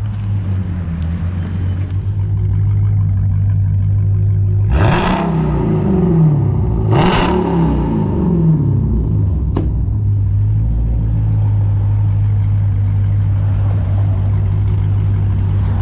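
Straight-piped Dodge Hellcat supercharged 6.2-litre V8 idling, blipped twice, about five and seven seconds in, with the pitch rising and falling each time. The resonator and muffler are deleted, and it sounds really loud. A short sharp click comes near ten seconds.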